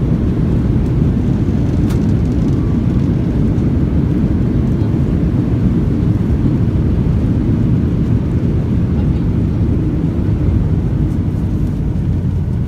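Boeing 737-800 cabin noise during landing: a loud, steady low rumble of engine and airflow heard from inside the cabin.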